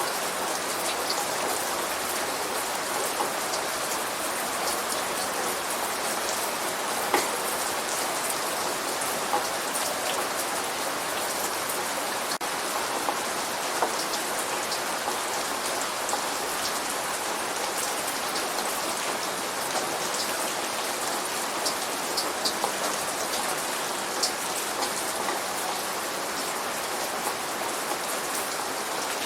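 Light rain falling steadily, with single louder drops ticking on a surface every couple of seconds.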